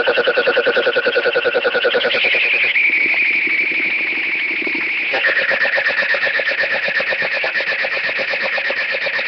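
Computer text-to-speech voice buzzing out a fast run of rapidly repeated syllables, its vowel sound changing about every two to three seconds.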